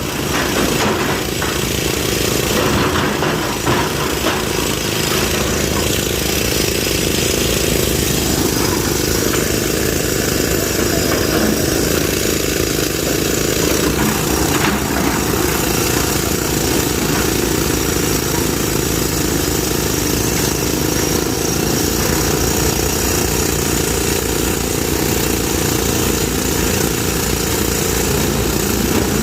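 A heavy diesel engine of construction machinery running steadily.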